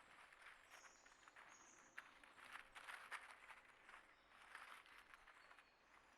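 Faint scratching and pecking of feeding birds and squirrels, with two short high bird notes in the first two seconds.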